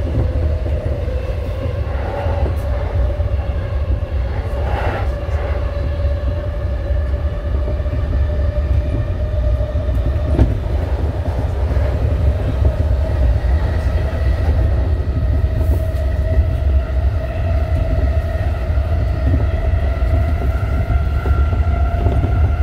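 Inside an E233-series electric train car on the JR Chuo Line Rapid, running between stations: a steady low rumble from the wheels on the track under a traction-motor whine that slowly rises in pitch, with a few faint knocks from the rails.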